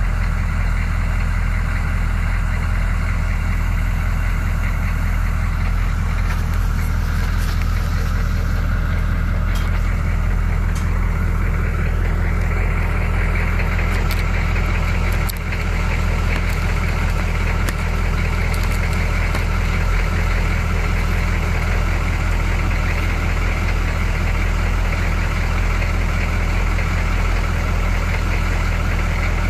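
Chevy 6.2 diesel V8 idling steadily through twin Cherry Bomb mufflers.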